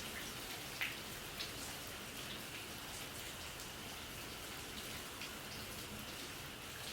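Bioethanol fireplace burning: a steady soft hiss with a few faint ticks.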